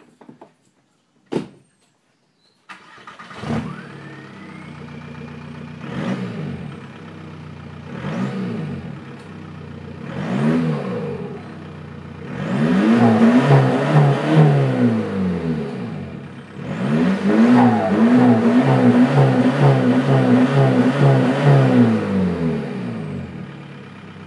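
Volkswagen Jetta TDI turbodiesel started and run through a straight-pipe exhaust with no muffler. The engine comes on about three seconds in, idles with four short blips of the throttle, then is revved repeatedly in two long runs before settling back to idle near the end.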